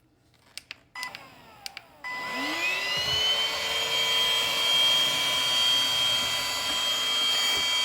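A few light plastic clicks, then a Homeika cordless stick vacuum switches on about two seconds in. Its motor spins up with a rising whine and then runs steadily with a high whine and rushing air.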